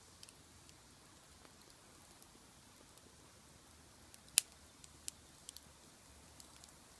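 Wood fire burning in a large iron pot, crackling with scattered sharp pops: one loud pop a little over four seconds in, then a few smaller ones.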